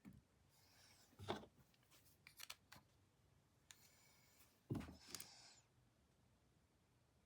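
Faint scraping of a painting tool working paint on canvas, with a few light taps and knocks, the loudest about a second in and near the middle.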